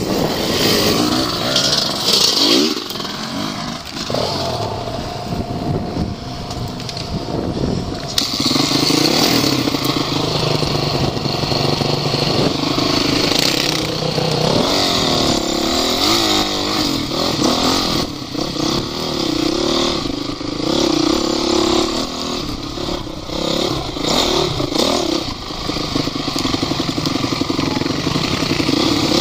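Off-road vehicle engine running under way, revving up and easing off over and over as it is driven over rough ground.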